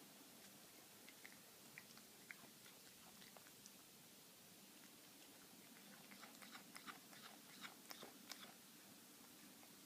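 A cat chewing a piece of steak, making an odd clicking chewing noise: faint, scattered clicks, a few in the first four seconds and a quicker run of them from about six to eight and a half seconds in.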